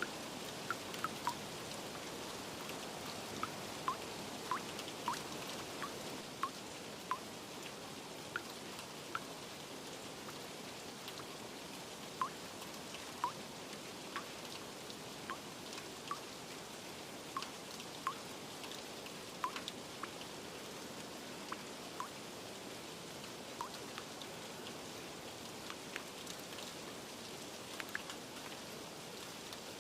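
Steady rain hiss with irregular water drips plinking, about one every second or so.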